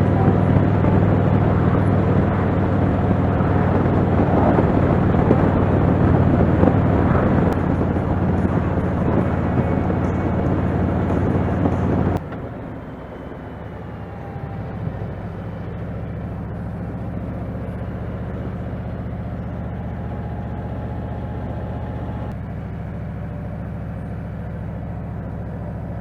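Motorcycle engine running steadily under way, with rushing wind noise. About twelve seconds in the sound cuts off abruptly to a quieter, steadier engine drone with less wind.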